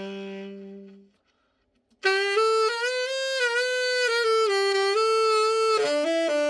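Tenor saxophone being played, typical of a play-test after a full overhaul. A held note dies away about a second in, and after a short pause a slow melodic phrase of several sustained notes follows.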